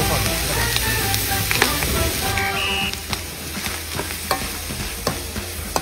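Oil and food sizzling in a large metal wok while a metal utensil stirs through it, with sharp clinks of metal against the pan. The sizzle eases a little about halfway through.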